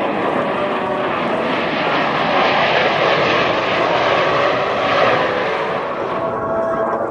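Jet noise from Blue Angels F/A-18 Hornets making a pass: a dense roar that swells to a peak in the middle and fades away near the end.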